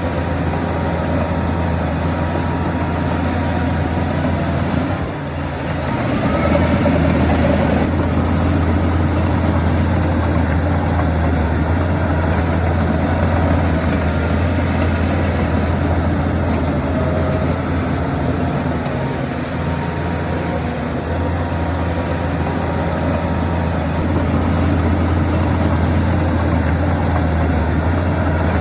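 Heavy diesel engine of earthmoving machinery running steadily with a deep low hum; it eases briefly about five seconds in, then runs a little louder.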